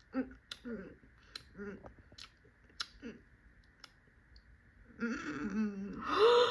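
A voice acting out chewing and tasting food: short hummed sounds and mouth clicks, then from about five seconds in a longer, louder vocal sound whose pitch rises.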